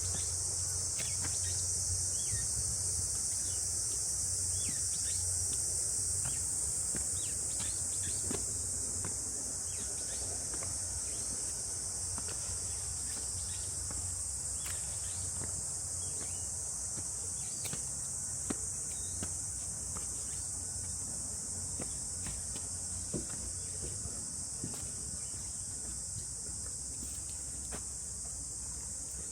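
Steady, high-pitched drone of a cicada chorus, with faint scattered clicks of footsteps on the trail.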